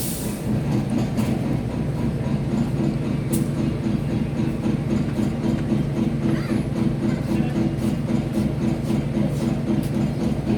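Diesel locomotive engine running steadily at idle, with a sharp clack at the start and another about three seconds in.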